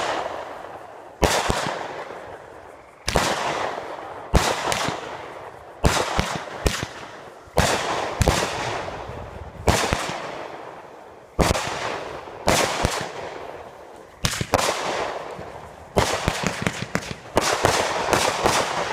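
A multi-shot consumer firework cake (True Colors) firing a long series of loud shots, about one every second, sometimes two close together. Each shot trails off over a second or so before the next.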